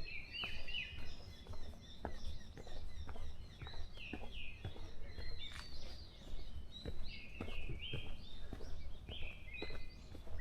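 Several songbirds calling in a dawn chorus: many short, quick chirps and whistled notes overlapping one another. A steady low rumble runs underneath, with a few faint clicks.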